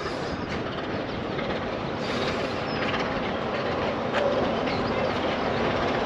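Train running on the rails: a steady rumble and rattle with faint clicks of the wheels, slowly getting louder.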